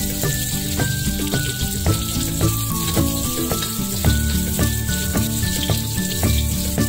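Onion and ginger sizzling in hot oil in a stainless steel wok as they are stirred with a wooden spatula. Background music with a stepping melody and a steady bass pattern plays over it and is the louder sound.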